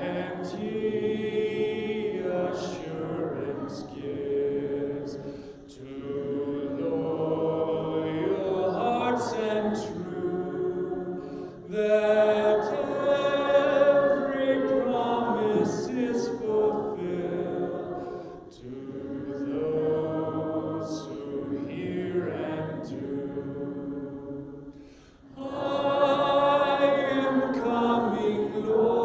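Congregation singing a hymn a cappella, many voices together in long phrases with short breaths between them.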